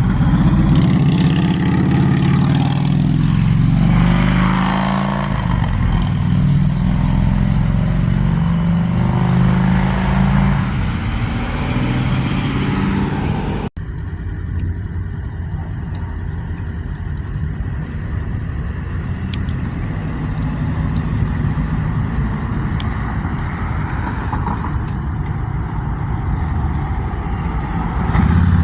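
Motorcycle engine running. About halfway through, the sound cuts off abruptly, then the engine continues more softly.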